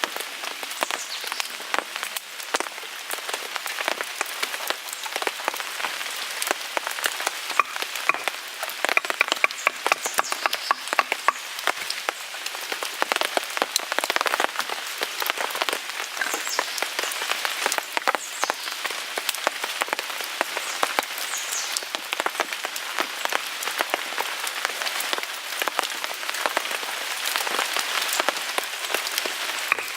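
Rain pattering on a tarp while a wood fire crackles in a Picogrill 398 fire pit: a dense, uneven run of small ticks and pops.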